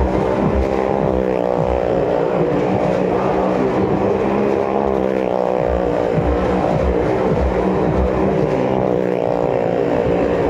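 Motorcycle engine running at high revs as it circles the vertical wall of a wooden well-of-death drum, its pitch rising and falling in waves as it goes round.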